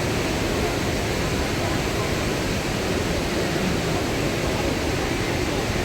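Water pouring over a waterfall: a steady, even rush of noise.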